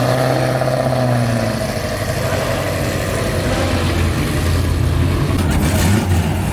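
Supercar exhaust on the highway: a pitched engine note holds for about the first second and a half, then fades, leaving a low drone under a constant haze of road and wind noise.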